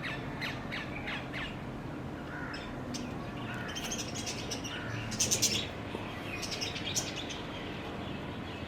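Several birds chirping and calling, with a louder burst of chirps about five seconds in, over a low steady hum.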